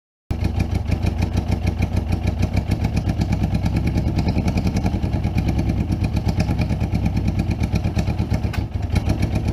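Suzuki GS550 air-cooled inline-four motorcycle engine running steadily at a fast idle, with an even pulsing exhaust note. The sound comes in abruptly just after the start.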